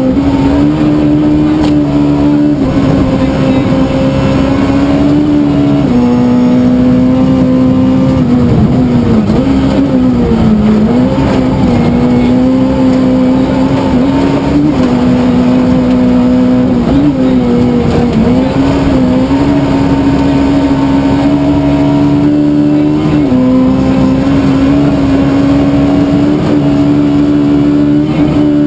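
Suzuki Swift S1400 rally car's engine running hard at high revs through a stage, a steady high note that dips briefly in pitch several times and climbs back.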